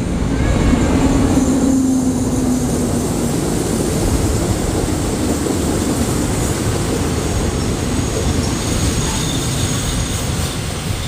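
State Railway of Thailand train running past at close range: a loud, steady rumble of wheels on the track that builds over the first second and then holds.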